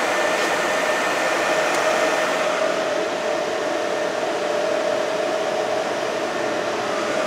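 Fanuc Red Top servo motors running on a test bench under their Centroid drives: a steady whirring noise with a constant whine.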